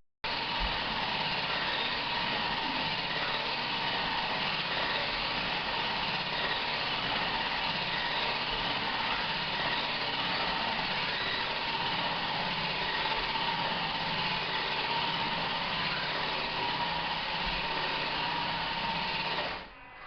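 Small electric motor and gears of a toy R/C truck running with a steady high whine.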